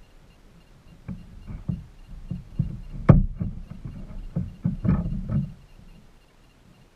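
A series of about a dozen irregular hollow knocks and thumps, the loudest about three seconds in, stopping after about five and a half seconds.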